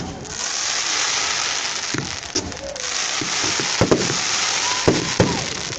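Fireworks going off: a loud, steady hiss starts suddenly and is broken by several sharp cracks and pops.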